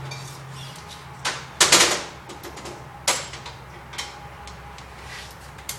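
A wrench being picked up and handled: a few sharp metallic clinks and knocks, the loudest a short rattle about two seconds in, with single clicks later.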